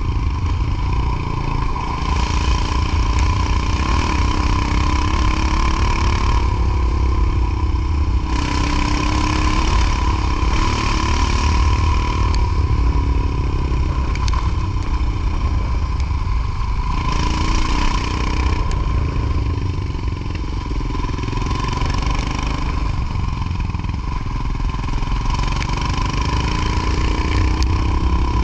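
Motorcycle engine running while riding, its pitch drifting up and down with speed, under a heavy low rumble.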